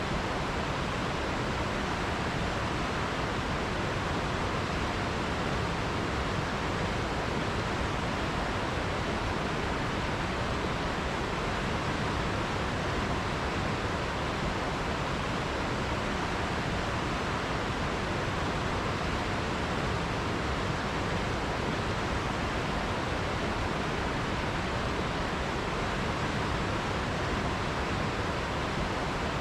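River water rushing steadily, a continuous even hiss with no distinct splashes or other events.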